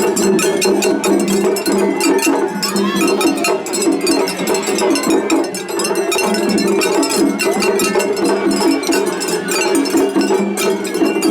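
Japanese festival hayashi ensemble playing, with the rapid metallic clanging of the atarigane hand gong and drum strikes in a quick, continuous rhythm.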